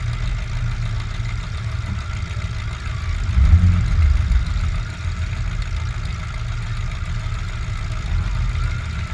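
Demolition derby truck engine running with a steady low rumble, swelling louder for about a second, three and a half seconds in.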